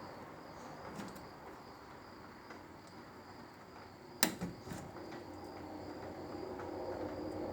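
Downlight fitting and its spring clips being handled while being pushed into the ceiling, with a small click about a second in and one sharp click about four seconds in, over a faint steady high-pitched tone.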